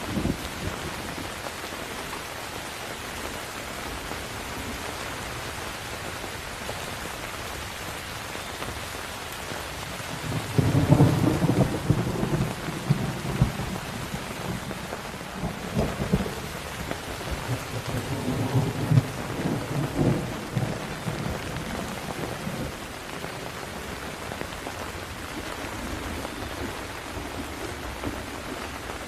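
Steady rain falling, with a long roll of thunder that starts about a third of the way in and rumbles on for some ten seconds, loudest near its start and with several swells before it dies away.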